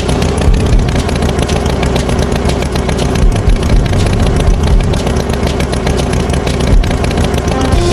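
Tractor engine running steadily, a loud noisy drone with a fast ticking beat.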